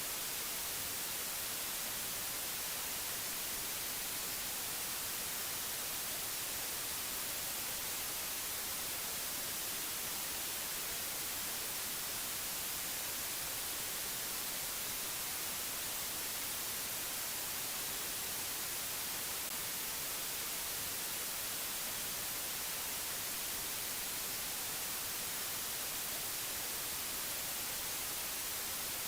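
Steady, unchanging hiss of white noise, strongest in the high treble, with no tones or breaks.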